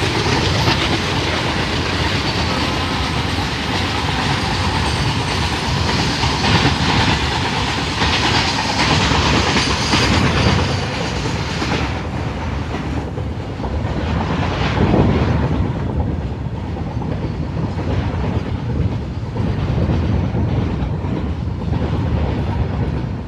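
Open-top freight wagons of a long goods train rolling past close by, a steady rumble of wheels on the rails with a rhythmic clickety-clack over the rail joints.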